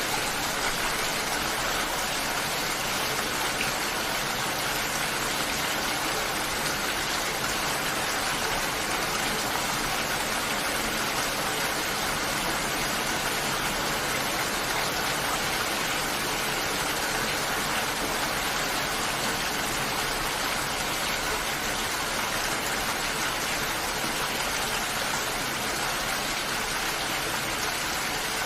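Steady, even rain falling, a dense hiss of many drops with no breaks or changes in strength.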